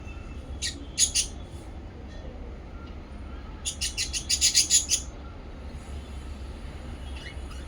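Small pet parrots chirping: a few sharp high chirps about a second in, then a quick run of about ten shrill chirps near the middle, over a steady low hum.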